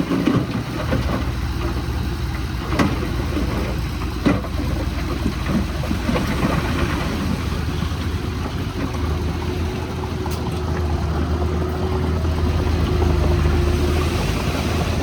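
Heavy diesel construction machinery running with a steady low rumble, with two sharp metallic knocks early on and a steady whine joining about halfway through as the engine grows slightly louder.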